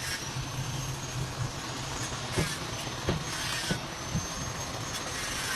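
Heavy dump truck running with a steady high-pitched squeal over its engine noise, and a few sharp clanks and knocks near the middle.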